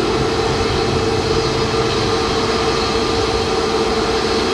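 Jet aircraft engines running steadily: a constant roar with a steady droning tone through it.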